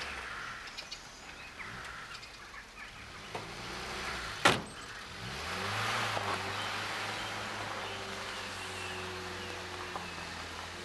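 A car door slams shut, then the car's engine starts, its pitch rising briefly before it settles into a steady run.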